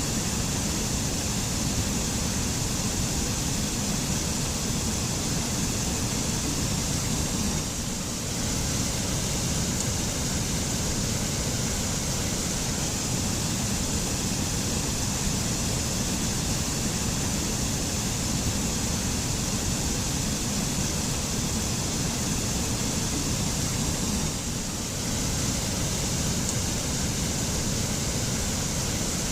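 Mountain waterfall pouring steadily: an even, unbroken rush of water, briefly a little softer twice.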